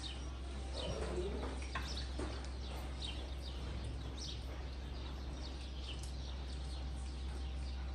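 Small birds chirping, many short high calls scattered through, over a steady low hum.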